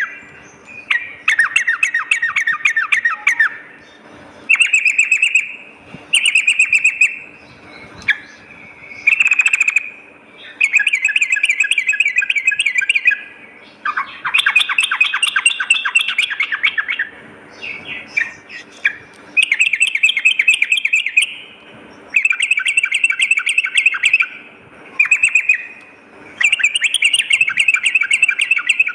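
Yellow-vented bulbul (trucukan) singing: repeated bursts of fast, chattering trilled phrases, each one to three seconds long, with short pauses between them.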